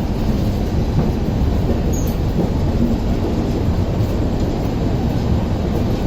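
Passenger train running, a steady heavy low rumble with no clear wheel beats.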